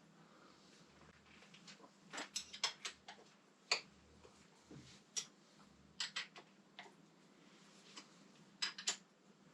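Light metallic clicks and clinks of hand tools and bolts as motorcycle handlebar hardware is unbolted. They come irregularly, in small clusters a few seconds apart, over a faint steady low hum.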